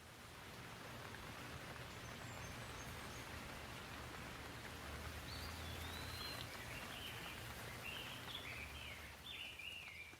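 Gentle steady rain falling, with a bird chirping a run of short, rapid calls through the second half.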